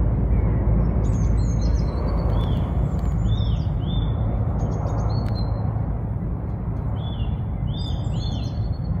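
Small birds chirping in quick, high, arching notes, in a run from about a second in to past the middle and again near the end, over a steady low rumble.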